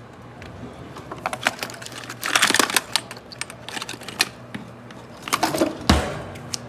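Rummaging for a pair of scissors: a run of clicks and clattering with a short rustle, then one heavy thump near the end, over the faint steady hum of a microwave running.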